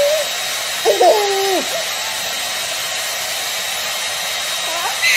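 Handheld hair dryer running steadily, a continuous blowing hiss with a thin motor whine. A cat meows once, about a second in.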